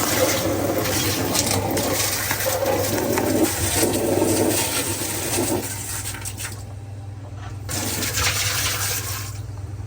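Water poured by hand into a dishwasher tub, splashing for about five and a half seconds and then stopping, with a shorter splash near the end. A steady low hum runs underneath.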